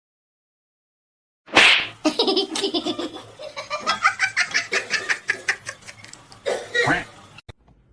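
A sudden burst of noise, then a person laughing hard in a long run of rapid pulses, trailing off near the end.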